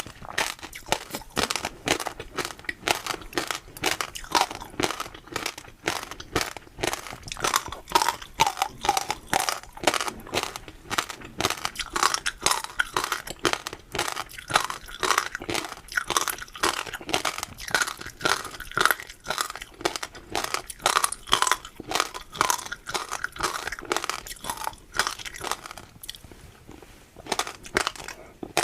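Close-miked crunchy eating: food being bitten and chewed, with rapid crisp crunches several times a second that ease off briefly near the end.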